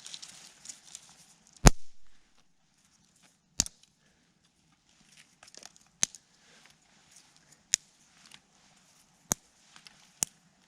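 Dry wood cracking sharply, one crack every second or two, about six in all, over a faint crackle.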